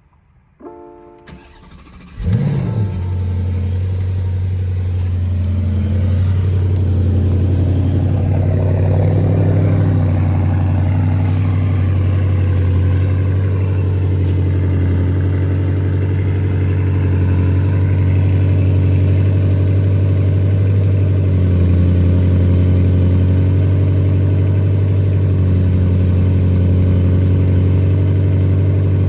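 A short electronic tone, then the Porsche Panamera GTS's 4.0-litre twin-turbo V8 cranks and fires about two seconds in with a brief rev flare, settling into a steady cold-start idle.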